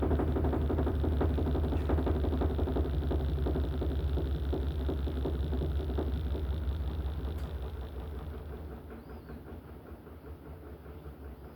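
LG top-load washing machine in its spin cycle, the drum and motor humming steadily, then winding down about two-thirds of the way through as the spin ends and the drum coasts to a quieter run.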